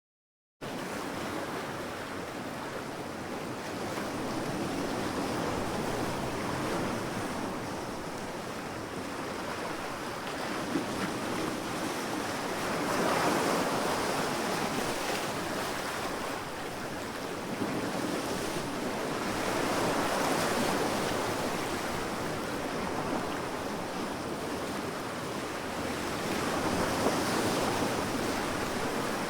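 Sea waves surging onto a sandy beach: a steady rushing hiss of surf that swells every several seconds as waves break and wash in. It starts abruptly about half a second in, out of silence.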